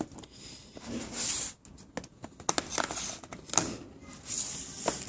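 Handling noises from unboxing a phone: packaging rustling and sliding, with scattered light clicks and knocks.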